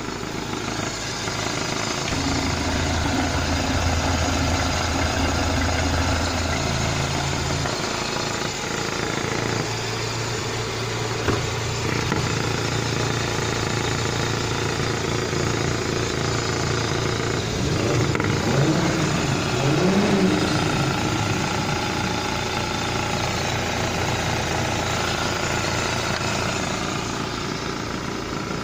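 Renault K4M 1.6-litre 16-valve four-cylinder petrol engine running at idle in a Megane II engine bay, a steady hum with a short rise and fall in pitch about two-thirds of the way through.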